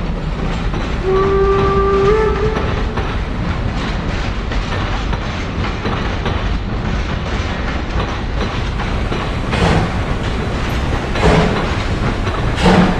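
Steam locomotive running, a steady rumble with one short whistle blast about a second in. In the last few seconds slow, heavy exhaust chuffs come roughly every one and a half seconds.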